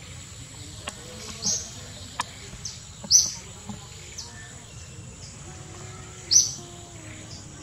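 A bird chirping: three short, high-pitched chirps a couple of seconds apart, each followed by a fainter one, over a steady low background hiss.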